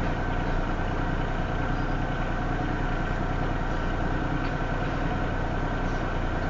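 Diesel-electric freight locomotives' engines running steadily with a low, even drone as they pull a stack train from a stop at walking pace.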